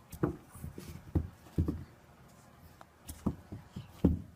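A string of short, soft thumps and knocks at uneven spacing, about a dozen in all.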